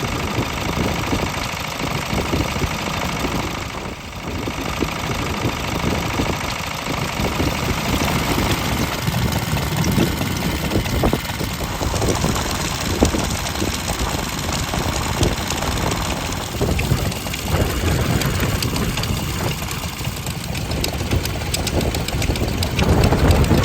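Vintage stationary engines running, an irregular mix of exhaust beats, a little louder near the end.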